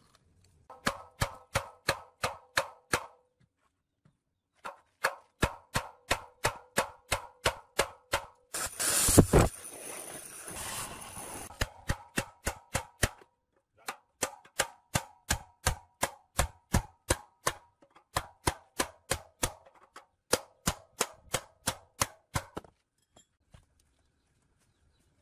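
Hammer blows on metal in steady runs of about three to four strikes a second, each with a short metallic ring. About nine seconds in, a brief loud noisy burst breaks the hammering.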